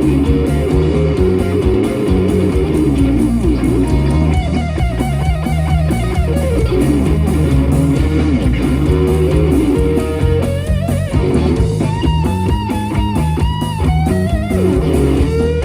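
Live blues-rock band playing an instrumental passage: bass and drums keep a steady groove while a lead electric guitar plays bent, wavering notes.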